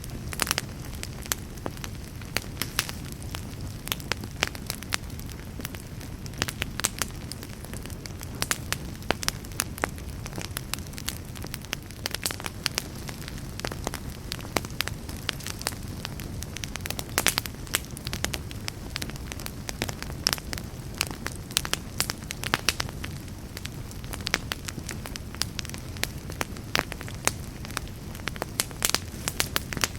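Fireplace fire burning with a steady low rush of flames and frequent irregular crackles and sharp pops.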